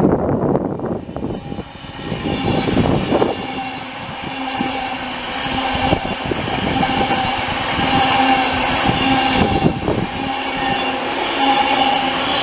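Electric passenger train running through the station, with a steady electrical whine from its traction equipment from a few seconds in and occasional clicks of wheels over rail joints.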